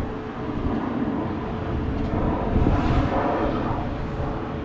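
Wind buffeting an action camera's microphone outdoors, a dense low rumble that swells louder for about a second near the middle, with a faint steady hum underneath.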